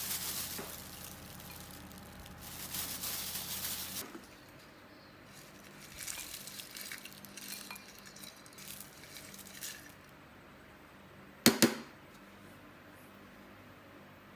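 Handling noises: rustling and brushing, then two quick sharp clinks, like glass or crockery knocking together, about two-thirds of the way through.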